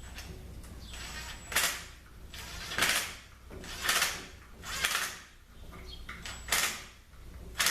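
Hand ratchet turning down the bolts of the solenoid hold-down bracket on a ZF6HP26 transmission valve body, in six short clicking rasps roughly a second apart.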